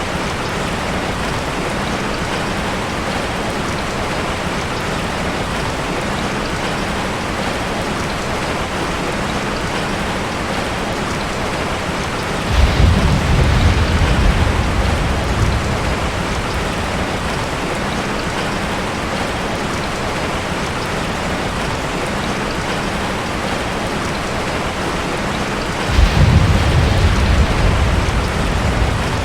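Heavy rain pouring steadily on a tin roof. Thunder cracks twice, about halfway through and near the end, each time rumbling low for a few seconds.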